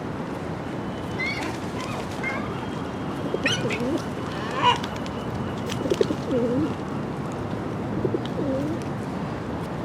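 Pigeons cooing in low phrases that bend up and down, three times, over steady background noise. Sharper, higher bird chirps come in the first half.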